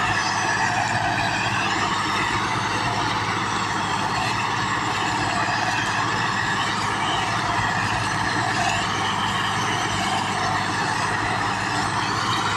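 Tractor engine running continuously under steady power, its pitch wavering slightly up and down.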